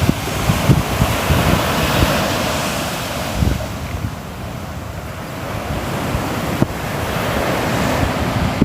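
Sea waves breaking and washing ashore, the surf hiss swelling, easing off in the middle and swelling again near the end, with wind rumbling on the microphone underneath.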